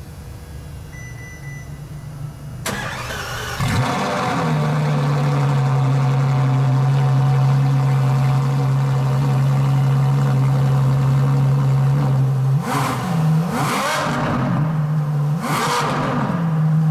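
Ferrari LaFerrari's V12 engine starting about three seconds in and settling into a steady idle. Near the end it is blipped three times in quick succession, each rev rising and falling quickly before dropping back to idle.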